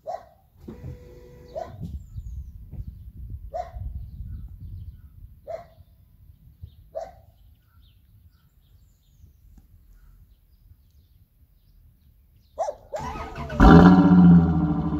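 Chrysler 300M's 3.5-litre V6 cold-started, heard at its Startech exhaust tip. The starter cranks about thirteen seconds in, and the engine catches with a loud flare, then settles into a fast cold idle. Before that there are only a few short animal calls.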